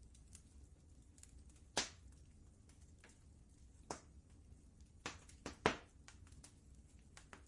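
Wood fire crackling in a fireplace: scattered faint ticks and about five sharper pops, the loudest a little past the middle, over a low steady rumble.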